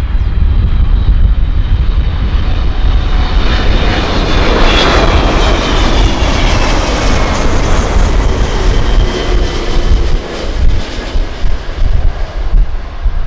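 An airliner passes close by, its engine noise swelling to a peak about five seconds in, then fading as the whine falls in pitch. Strong gusty wind buffets the microphone underneath.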